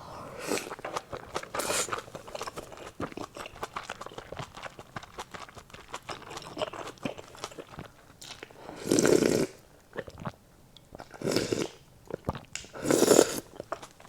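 Close-up eating sounds: mouth chewing and biting braised pork with kimchi, wet and crunchy, with three louder bursts in the second half.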